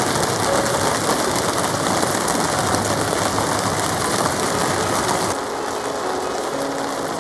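Heavy rain pounding on a tarp: a loud, dense, steady hiss that changes abruptly about five seconds in, with less hiss in the highs afterwards.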